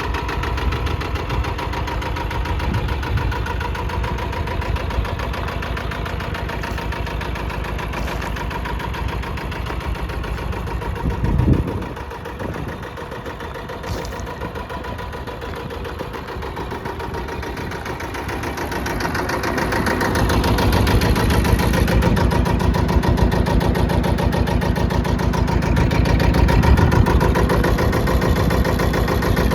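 Tafe 25 tractor's diesel engine running steadily. About twelve seconds in it swells briefly and then drops quieter, and in the last third it builds up and runs louder.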